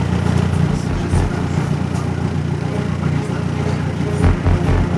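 Motorboat engine running steadily with a low rumble, with a few heavier low thumps about a second in and near the end.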